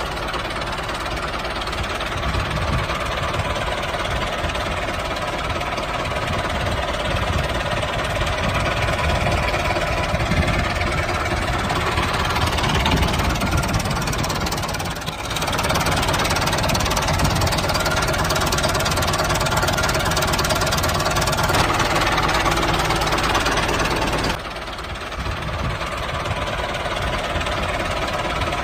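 Small engine of a handmade miniature Massey Ferguson 385 tractor running steadily with a knocking chug, with abrupt changes in level about 15 and 24 seconds in.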